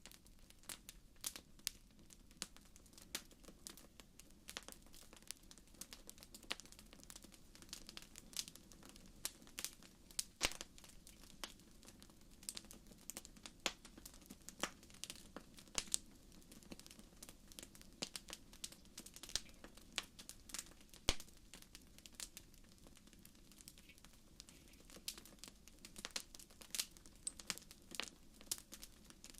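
Wood fire crackling in a fireplace: irregular sharp pops and snaps throughout, over a faint steady low rumble, with two louder pops about ten seconds in and again near the two-thirds mark.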